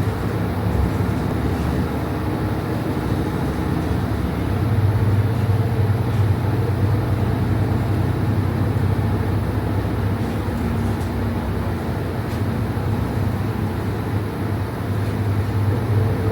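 Steady vehicle rumble: a low engine hum over road noise, a little louder from about four seconds in.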